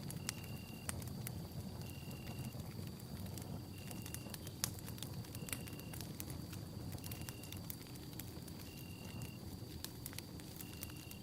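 Wood campfire burning with a steady low rumble of flame and scattered sharp crackles and pops. Through it runs a faint steady high tone and a short high-pitched chirp repeating about every 1.7 seconds.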